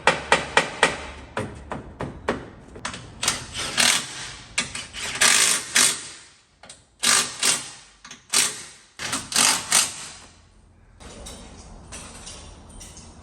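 An irregular series of sharp knocks and clicks, some in quick runs, for about ten seconds, then quieter.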